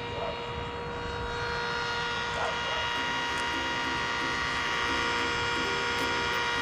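Cordless oscillating multi-cutter running steadily with a high, even whine, cutting firewood.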